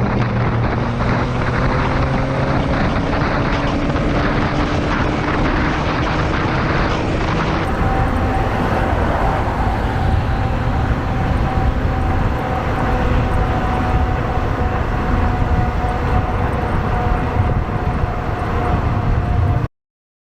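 Motorcycle riding: the engine runs steadily under heavy wind noise, with the engine note slowly rising at first. The sound changes abruptly about a third of the way in and cuts off to silence just before the end.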